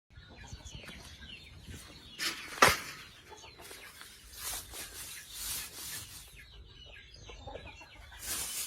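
Brooding hen clucking softly, with short scratchy rustles and one sharp knock about two and a half seconds in.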